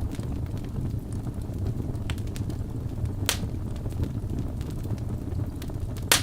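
Logs burning in a fireplace: a steady low roar of flame with scattered crackles and pops, a sharp pop about three seconds in and the loudest one near the end.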